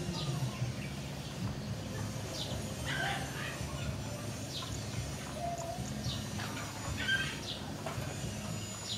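Birds calling with short, sharply falling chirps, a few at a time and repeated at irregular intervals, over a steady low background hum.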